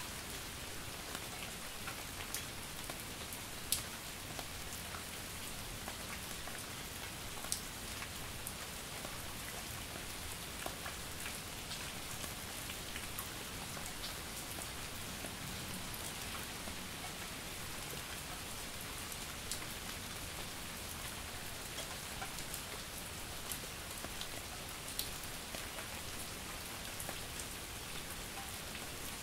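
Steady light rain: an even hiss of drizzle with close, separate drops ticking on a surface, a few of them sharper and louder than the rest.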